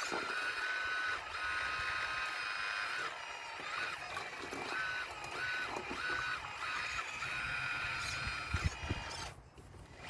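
Radio-controlled model excavator working, its motor whining in stretches that step up and down in pitch as the machine moves, with a few low knocks. The whine drops out briefly near the end.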